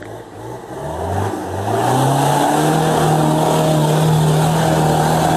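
Off-road 4x4's engine revving up over the first couple of seconds, then held steady at high revs.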